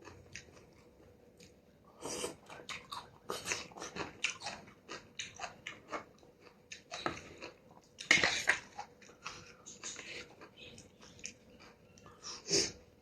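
Close-up mukbang eating sounds of a person chewing and biting on noodle soup with stewed beef and beef balls. The sound is an irregular run of wet chewing clicks, with louder bursts about two, eight and twelve and a half seconds in.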